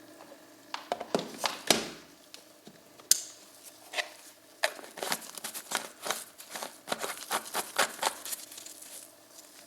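Handling noises: an irregular run of sharp clicks, taps and crinkling, thickening about halfway through, over a faint steady hum.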